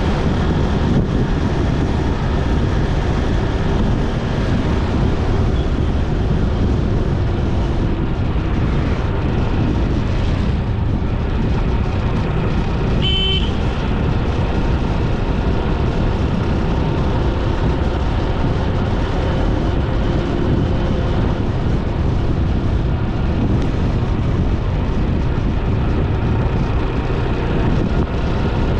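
Steady engine drone and wind rush of a motorbike riding along a road. A short horn beep sounds about halfway through.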